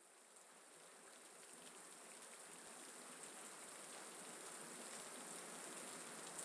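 Steady rain sound fading in and growing louder: the rain ambience that opens a recorded song, heard through an in-ear monitor on an artificial-ear recording rig.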